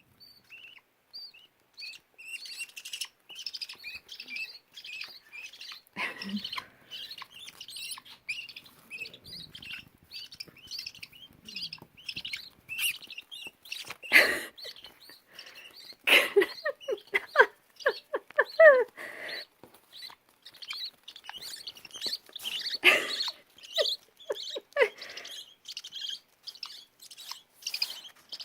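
Budgerigar chicks chirping rapidly and continuously in short high peeps, with a few louder, harsher calls around the middle.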